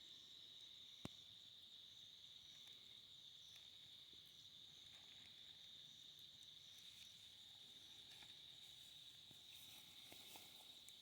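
Faint, steady chorus of crickets trilling at one unbroken high pitch, with a single sharp click about a second in.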